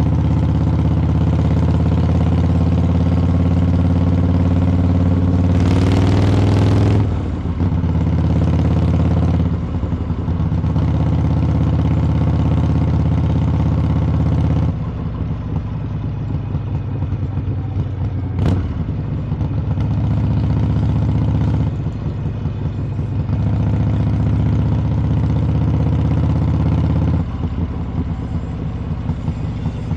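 Harley-Davidson V-twin motorcycle exhaust while riding: it runs steadily under throttle, climbs in pitch about six seconds in, then drops back as the throttle is rolled off, and picks up again. About halfway through there is a quieter, uneven stretch off the throttle with a single sharp click, before it pulls steadily again.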